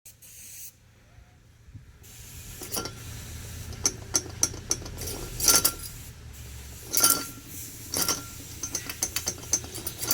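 Volkswagen Passat engine running with a steady low hum under irregular, sharp metallic clanking and clinking from the failed air-conditioning compressor, whose pulley is completely broken. The clanking grows louder about two seconds in, with the heaviest knocks coming every second or two.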